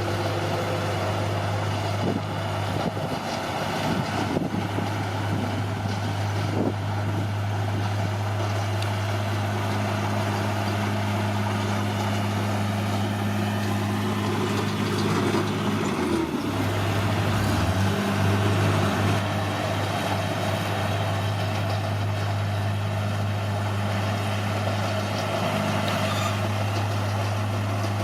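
Bulldozer's diesel engine running steadily under work, its pitch dipping briefly about two-thirds of the way through before picking back up, with a few short knocks near the start.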